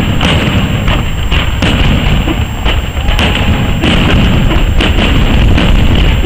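Fireworks display: many sharp bangs from bursting shells in quick, overlapping succession over a continuous heavy rumble.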